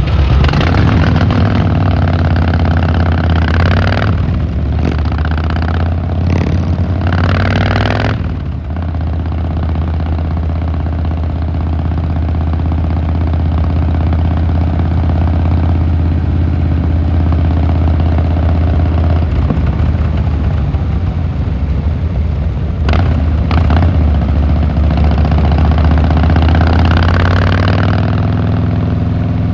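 Harley-Davidson Fat Boy Lo V-twin engine and exhaust running steadily under way, with wind rushing past. About a third of the way in the throttle eases briefly and the note changes, then it carries on steadily.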